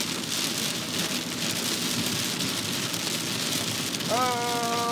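Heavy rain pelting a car, heard from inside the cabin as a steady hiss. Near the end a man lets out a drawn-out 'oh'.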